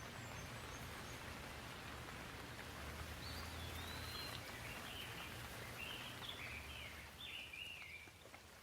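Gentle rain falling steadily as a soft hiss. A bird calls over it in a string of short, wavering high chirps from about three seconds in until shortly before the end.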